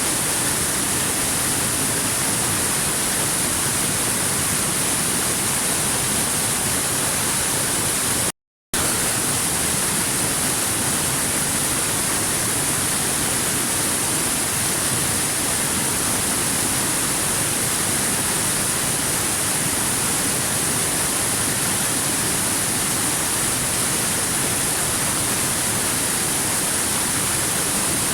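Waterfall rushing steadily, an even hiss with a bright high edge, broken once by a brief cut to silence about eight seconds in.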